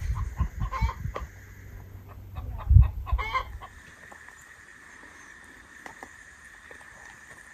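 Chickens clucking, several short calls in the first few seconds, with a low thump about three seconds in. Then it goes quieter, leaving a faint steady high tone.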